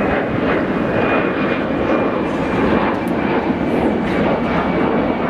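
Airliner's jet engines at takeoff thrust during the takeoff roll, just before rotation: a loud, steady rushing noise with a faint thin high whine over it.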